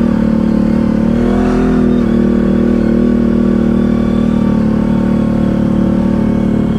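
ATV engine running steadily under way on the trail, its pitch rising briefly about a second in and then settling.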